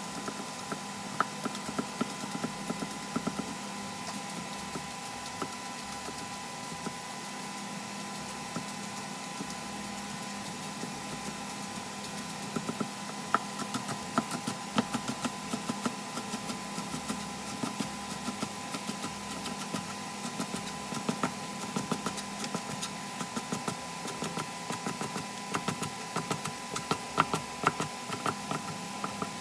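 Eggplant deep-frying in oil, a steady sizzle with frequent irregular crackles and pops, over the steady hum of a kitchen exhaust fan.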